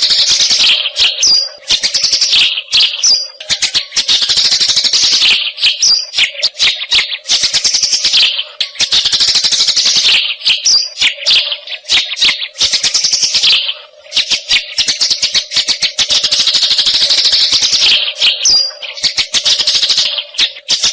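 Eurasian tree sparrow (burung gereja) chattering in dense runs of rapid chirps, broken by short pauses, over a faint steady hum.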